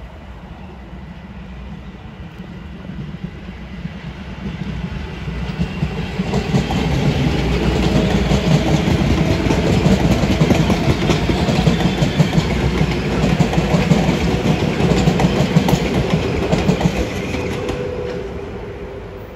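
Metro-North M7A electric multiple-unit train passing, its wheels clacking over the rail joints with a rumbling run of cars. It grows louder for the first several seconds, stays loud while the cars go by, then fades away near the end.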